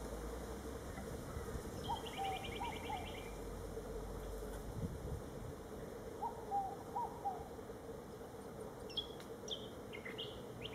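Birds calling: a rapid trill of high notes about two seconds in, short lower calls, and sharp high chirps near the end, over a faint steady hum.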